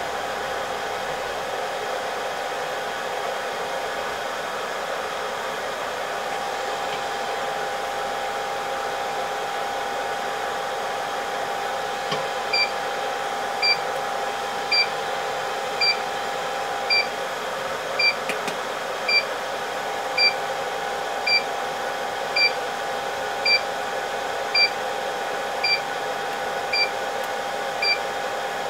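Hot-air rework station blowing steadily with a thin whine while the laptop GPU chip is heated for a reflow. About twelve seconds in, a short high beep starts repeating roughly once a second.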